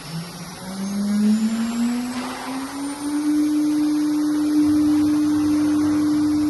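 CNC router's automatic-tool-change spindle spinning up: a whine that rises in pitch for about three seconds, then holds steady at speed.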